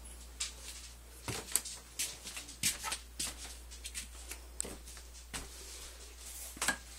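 Scattered irregular clicks and rustles of a phone being handled and carried indoors, over a steady low hum.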